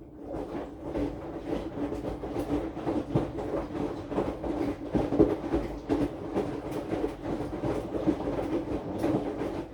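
AQUA AQW-DX12M drum washing machine turning its drum, with the wet laundry tumbling and thudding over a steady motor hum, heard through the machine's top. It starts up again at the beginning after a short pause.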